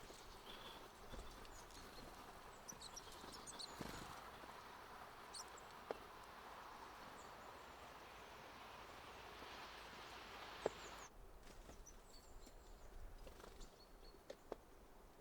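Faint outdoor ambience: a steady hiss that drops away abruptly about eleven seconds in, a few short high bird chirps a few seconds in, and three sharp clicks.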